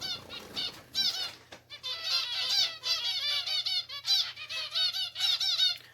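A cage full of pet finches chattering: many short, high chirps and calls overlapping in a dense, continuous din.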